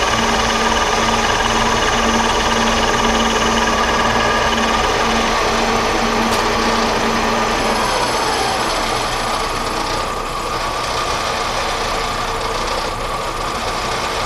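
Metal lathe running under power during a turning pass, a steady machine hum with several held tones. A little past halfway one low tone stops and a whine falls in pitch as the drive winds down, while a steadier hum carries on.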